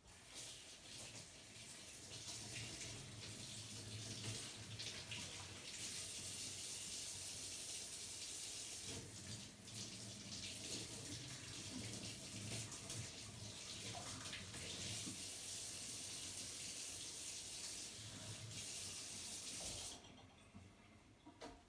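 Water running steadily for about twenty seconds, then cut off suddenly near the end.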